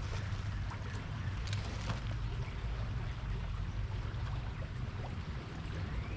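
Small creek water running steadily, with a low rumble of wind on the microphone.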